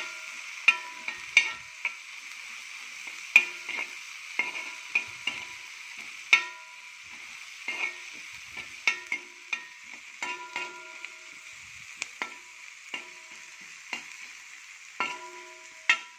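Sliced onions and green chillies sizzling as they shallow-fry in oil, stirred with a metal spoon that clicks and scrapes against the pan, each strike ringing briefly. The sizzle is a steady hiss under the irregular spoon strikes.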